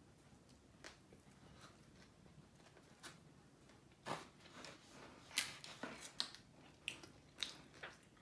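Close-up chewing of crispy whole fried chicken, with short crisp crunches from the fried skin, most of them in the second half.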